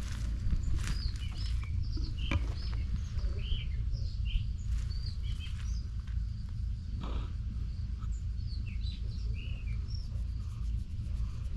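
Small birds chirping on and off with many short, quick notes over a steady low rumble.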